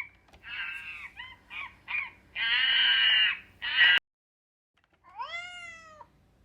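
Harsh, raspy animal calls: a run of short squawks and one longer call, cut off suddenly. Then a single arching call about five seconds in.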